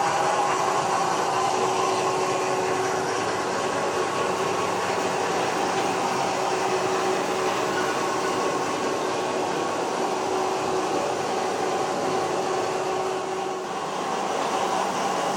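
H0-scale model trains running on the layout: a steady whir of small locomotive motors and wheels on track, with a thin tone that drops out near the end.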